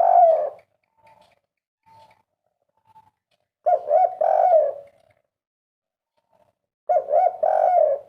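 Spotted dove cooing its 'kuk 3' song, the three-note coo prized by dove keepers. One phrase is already under way at the start, and two more full phrases of about a second each follow, about three seconds apart, with a few faint short notes in between.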